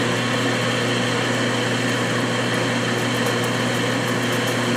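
Metal lathe running at about 300 RPM, a steady motor and gear hum with several even tones.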